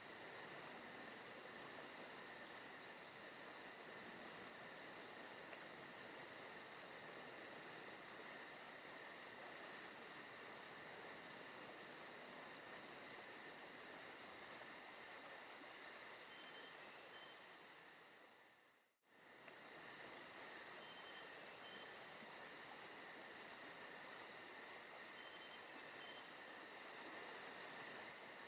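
Forest ambience recording with a faint, steady chorus of chirping insects, crickets by the sound of it, and a rapid high pulsing trill over it. About two-thirds of the way through it fades out almost completely for a moment and comes straight back, as at the seam of a looped track.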